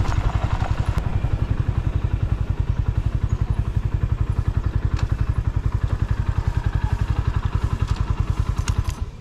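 Motorcycle engine idling with an even, pulsing exhaust beat, cut off right at the end.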